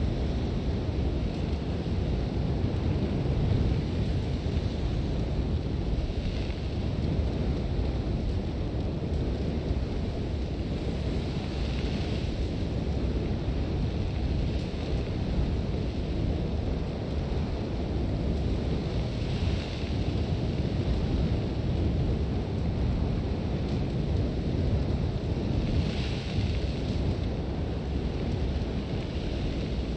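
Sandstorm: strong wind rumbling steadily, with a brighter hiss of blown sand swelling up every six or seven seconds.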